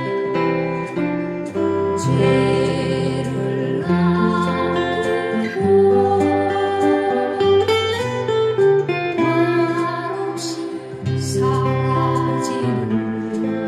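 Acoustic guitar playing the melody of a 1970s Korean folk song over a fuller accompaniment with held bass notes.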